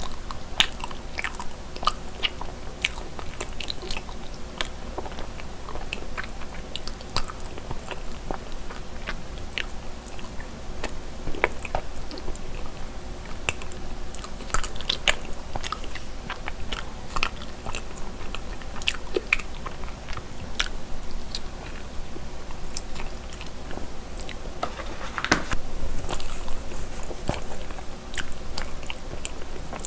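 Close-miked chewing of a cream cheese–filled mochi rice cake: soft, sticky mouth sounds with many small irregular clicks and smacks.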